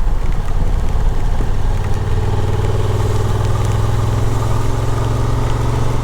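Motorcycle engine running at a steady speed on the move, over wind and road noise; its note settles into an even drone about a second and a half in.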